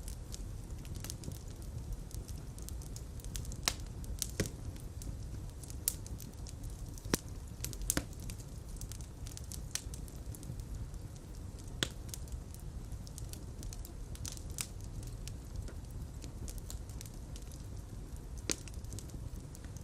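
Fireplace fire crackling: a steady low rumble of flames with irregular sharp pops and snaps every second or so.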